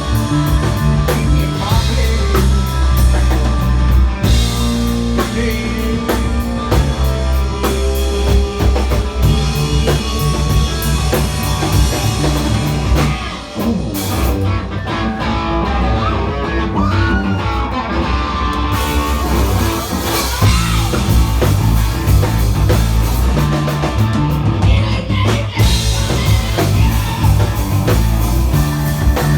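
Hard rock band playing: electric guitar, bass and drum kit. About fourteen seconds in the cymbals drop out briefly, and the full band comes back in near nineteen seconds.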